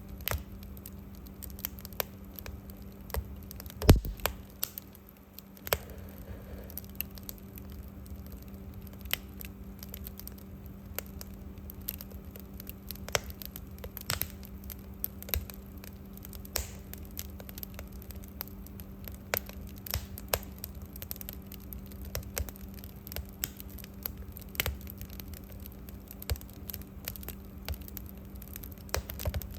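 Wood fire crackling, with irregular sharp pops over a steady low hum and one louder knock about four seconds in.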